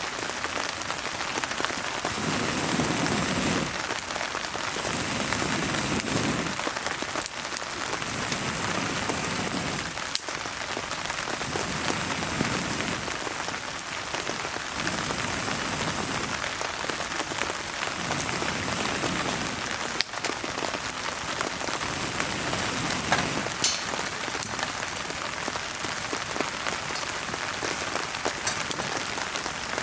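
Steady rain falling, with scattered small crackles from a wood fire burning in a fire pit. A fuller swell of rain noise comes back about every three seconds for the first twenty-odd seconds.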